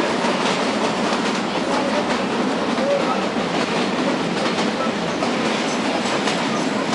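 Narrow-gauge Kalka–Shimla toy train running, heard from inside a carriage: a steady rumble of the wheels on the rails with a light clickety-clack.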